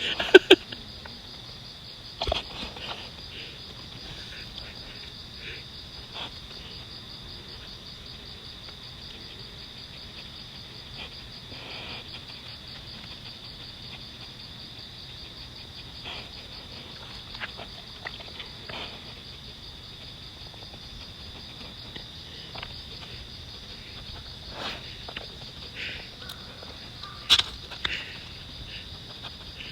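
Steady, high-pitched insect chorus, a continuous pulsing drone, with scattered short rustles and knocks; the sharpest come right at the start and a few seconds before the end.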